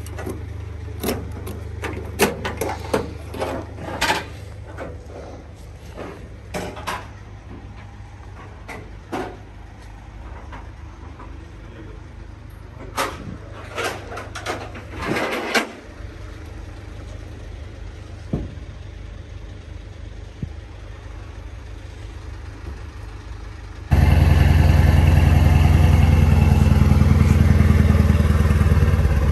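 Sharp clicks and metal knocks from ratchet straps being released on a car transporter's aluminium bed, over a low steady engine hum. About 24 s in, the Mercedes-AMG C63's V8 is heard running, much louder and steady.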